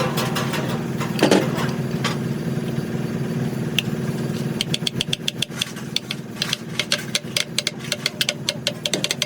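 Steady machine hum, like an engine running, with a few knocks early on and then a quick run of sharp metallic taps or clicks, several a second, in the second half.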